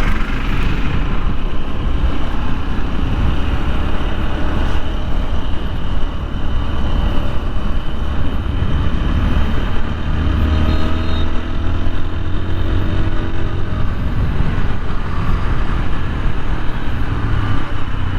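Wind buffeting a helmet-mounted microphone while riding a TVS Apache 160 4V motorcycle, with the bike's engine running underneath, rising and falling in pitch.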